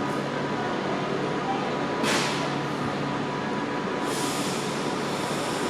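Avanti West Coast Class 390 Pendolino electric train humming steadily at the platform, with a short sharp hiss of air about two seconds in and a longer, softer hiss starting about four seconds in.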